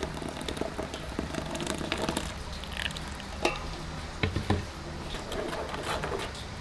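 Kitchen food preparation: irregular small clicks, taps and scraping sounds, like stirring or handling food, over a steady low hum.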